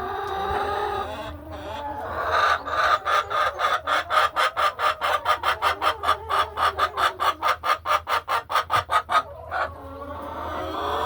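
Laying hens clucking. Drawn-out calls open the stretch, then a rapid, even run of short clucks, about six a second, runs for some seven seconds and stops, and drawn-out calls come back near the end.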